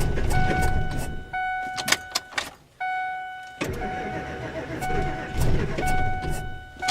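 A 2001 Ford F-250's 5.4 V8 being cranked over by the starter without catching, in two tries with a short pause and a few clicks between them. A steady warning-chime tone sounds on and off over the cranking.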